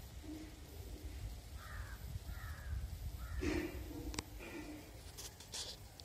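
A few faint, short bird calls over a steady low background rumble, with a couple of light ticks near the end.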